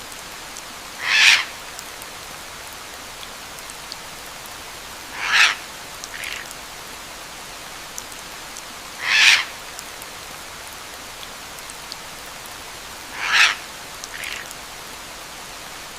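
Steady rain hiss with a short bird call repeating about every four seconds, four times, a softer second call following twice about a second after.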